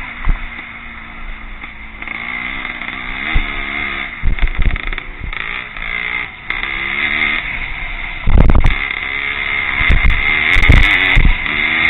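Vintage Pre-65 motocross motorcycles racing, engines revving up and down as they ride the course. Heavy low thumps come about eight seconds in and again near eleven seconds.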